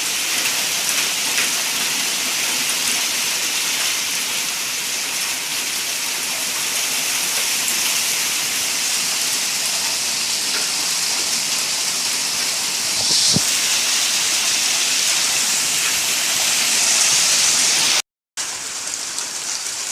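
Hailstorm: hailstones and rain coming down hard, a steady dense hiss of hits on the ground and surfaces. The sound cuts out completely for a moment near the end.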